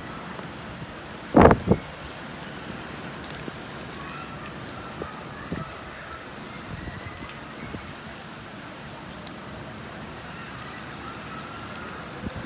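Steady rain falling on leaves. About a second and a half in, a brief loud double thump cuts through.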